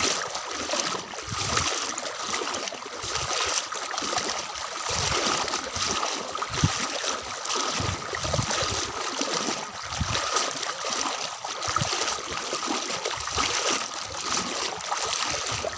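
Floodwater splashing and sloshing with irregular footsteps, about one a second, as someone wades through it. A faint steady high tone runs underneath.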